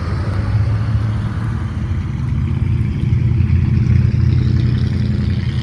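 A motor vehicle's engine rumbling low as it drives slowly past, growing louder to a peak about four seconds in and easing off near the end.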